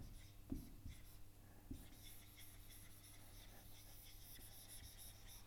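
Faint scratching of a pen or marker writing or drawing, very quiet, with a couple of soft knocks in the first two seconds.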